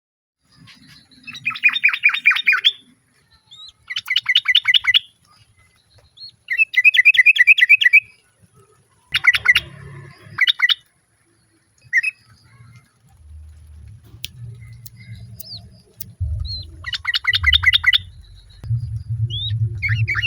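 Yellow-vented bulbul (female, as titled) giving bursts of rapid, bubbly chattering calls, each about a second long and repeated every few seconds. A low rumble sits underneath in the second half.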